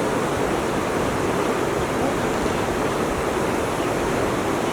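Steady rushing of flowing water, a continuous even noise that does not change.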